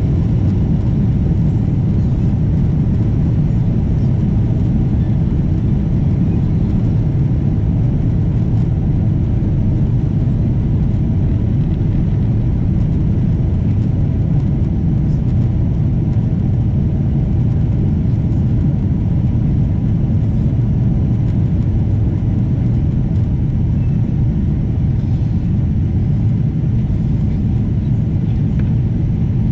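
Boeing 777-200 jet airliner: a steady low rumble of engines and airframe, unchanging throughout.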